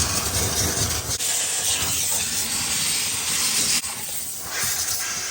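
Handheld steam cleaner hissing steadily as it blows steam onto a frosted-over fridge evaporator coil, melting the frost buildup. A low hum sits under the hiss for about the first second.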